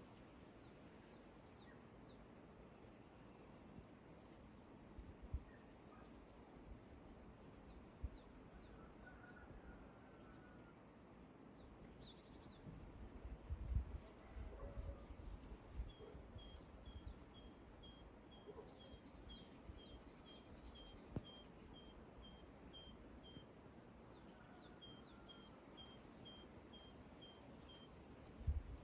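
Faint dawn ambience: a steady high-pitched trill of crickets throughout. In the second half a bird repeats a short two-pitched chirp about twice a second, in two runs of several seconds each. A low rumble swells around the middle, and a few soft thumps are scattered through.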